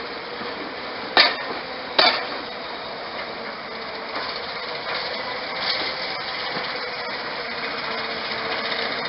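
Diesel train running steadily, with two loud sharp metallic clanks about a second in, just under a second apart, and lighter clicks after; the running sound grows louder near the end.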